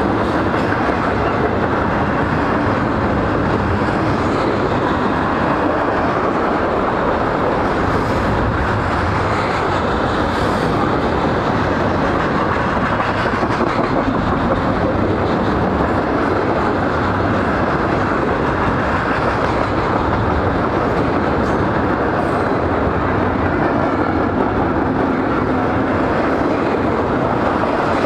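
Freight train of double-stacked intermodal container well cars rolling past, a steady rumble of steel wheels on the rails.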